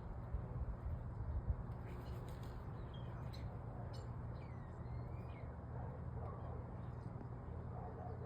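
Small songbirds chirping faintly with short calls and quick gliding notes, over a steady low rumble, with a few dull thumps in the first second or so.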